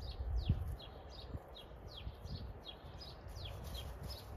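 A bird singing a repeated phrase of short, high, falling notes, roughly every two-thirds of a second, with brief shorter notes between them. Underneath is a low rumble, with a low thump about half a second in.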